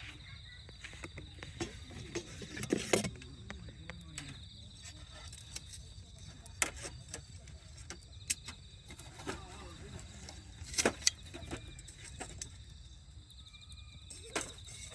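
Wood campfire crackling, with irregular sharp pops and snaps; a few louder pops come about three seconds in and again near eleven seconds.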